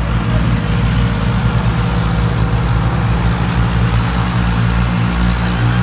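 Swaraj tractor's diesel engine running steadily under the load of a fully loaded trolley, a low, even, rapidly pulsing engine note.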